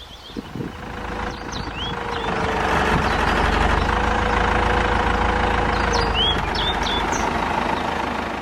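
Scania 142H's V8 diesel engine running steadily. It grows louder over the first three seconds, then holds. Birds chirp briefly twice over it.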